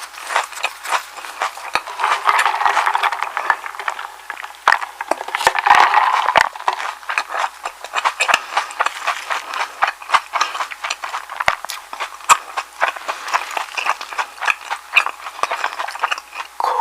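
Close-miked chewing of a soft egg sandwich: a dense, irregular run of small clicks and smacks from the mouth.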